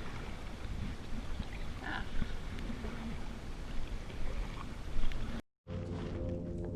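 Kayak paddling on a lake: a steady rushing noise with soft paddle splashes. About five seconds in the sound cuts out briefly and background music begins.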